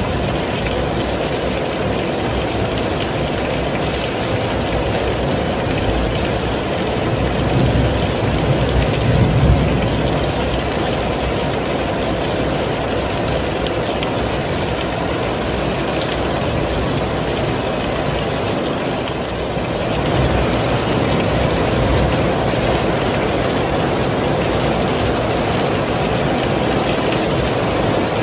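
Heavy rain falling steadily, a dense even hiss with a deep rumbling body. It swells briefly louder and deeper about eight to ten seconds in.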